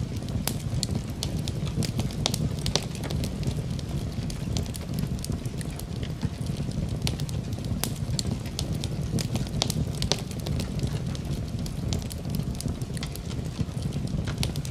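Wood fire crackling in a fireplace: many irregular sharp snaps and pops over a steady low rumble of burning.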